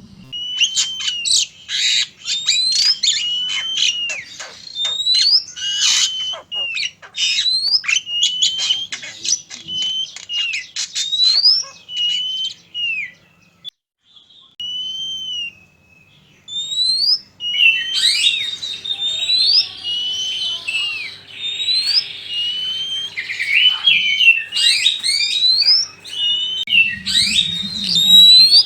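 Oriental magpie-robins singing: fast whistled notes that slur up and down, mixed with harsh, scratchy chattering. The song thins to a few scattered notes about halfway through, then resumes densely.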